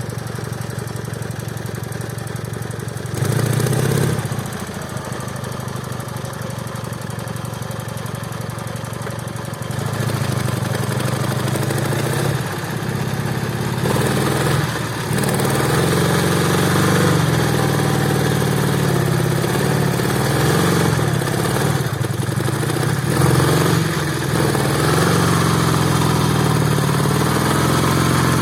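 Soviet-style heavy flat-twin motorcycle engine (Ural/Dnepr type) running. It idles steadily with a short rev about three seconds in, then from about ten seconds runs louder with revs rising and falling.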